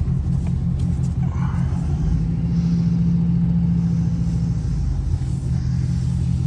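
Loud modified truck engine running at low speed with a deep, steady rumble from its loud exhaust.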